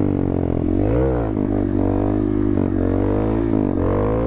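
Small motorcycle engine revving as it is ridden, its pitch rising and falling twice with the throttle.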